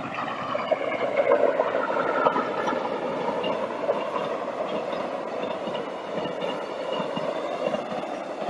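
Passenger train hauled by an electric locomotive running past on the rails, with a steady rumble of wheels and faint clicks. A whine falls in pitch over the first two seconds or so as the locomotive goes by.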